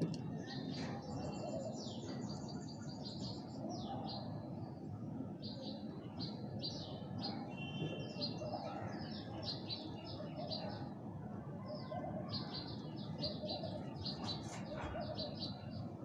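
Small birds chirping: many short, high chirps in quick runs, over a steady low background rumble.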